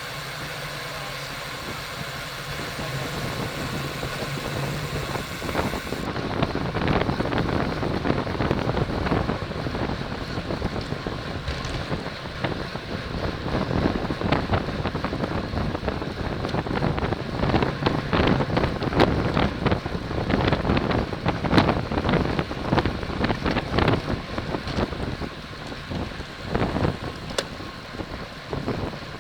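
Wind buffeting the microphone of a camera on a racing bicycle at speed. The rush is fairly steady at first with a low hum under it, then turns gustier and louder after about six seconds.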